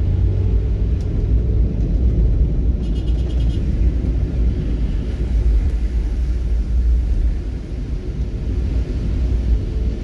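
Steady low vehicle rumble, with a brief run of fast ticks about three seconds in.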